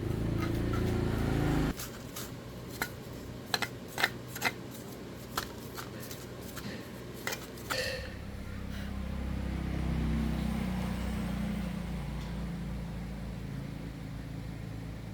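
A machine's motor hums steadily and cuts off suddenly a couple of seconds in. It is followed by a series of sharp metallic clinks and taps, like tools on metal. Near the end a low hum swells and fades.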